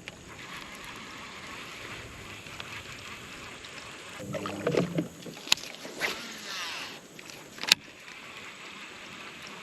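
Small boat on the water: a steady faint wash of water and hull noise, with a brief louder patch about four and a half seconds in and two sharp clicks, one about five and a half seconds in and one near the end.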